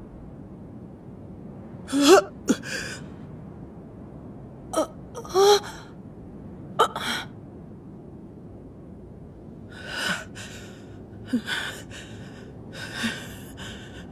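Dubbed anime characters gasping and breathing hard after surviving a blast. Several short voiced gasps and grunts come in the first seven seconds, then a few heavy breaths in the second half.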